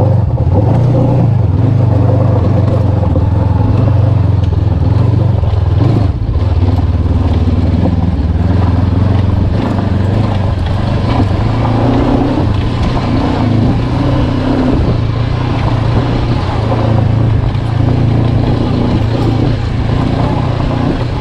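Honda CB500X motorcycle's parallel-twin engine running steadily and loudly, with a low drone throughout.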